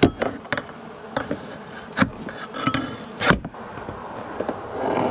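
Honey bees buzzing around their colony in a house wall, with a few sharp knocks and clicks from working at a siding panel to pry it off.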